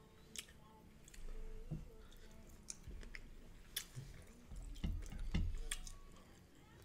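Close-miked eating of buttered shrimp and lobster: wet chewing with scattered sharp mouth clicks and lip smacks, a little louder for a moment about five seconds in.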